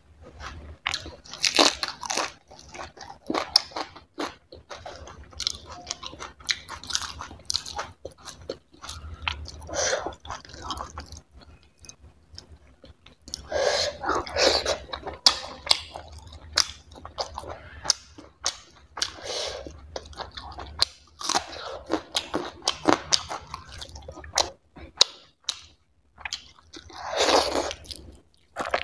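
Close-miked chewing and crunching of hand-fed mouthfuls of food, with wet mouth clicks, in irregular bursts; louder clusters about halfway and near the end.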